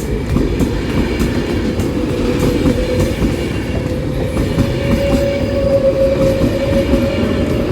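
Model train running on an exhibition layout: a steady rolling rumble with the clicks of wheels over rail joints and a steady whine that climbs slightly in pitch.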